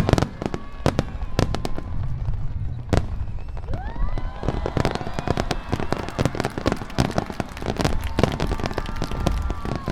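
Aerial fireworks bursting in rapid succession, a dense run of cracks and bangs with crackling. Several whistling tones rise and then hold, from about four seconds in.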